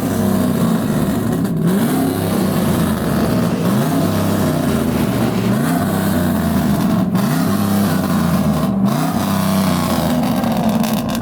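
Truck engine revving with a loud exhaust, its pitch climbing in short rises again and again, about once a second.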